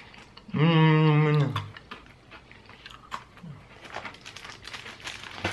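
A person hums a steady 'mmm' for about a second, then bites and chews a crunchy chocolate-flavoured biscuit stick, giving faint crunching clicks.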